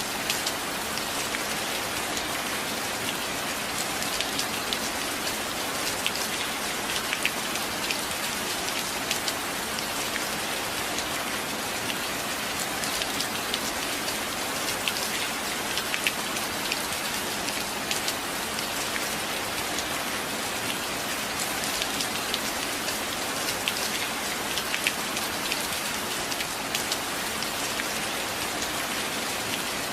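Steady rain falling, an even hiss with many sharp, scattered drop ticks.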